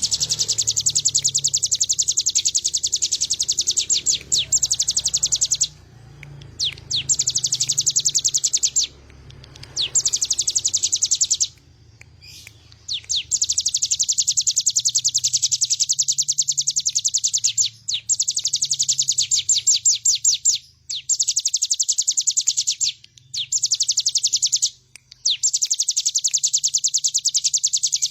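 Ciblek gunung (a mountain prinia) singing in 'bren' style: long, very fast, high rattling trills of a few seconds each, broken by short pauses.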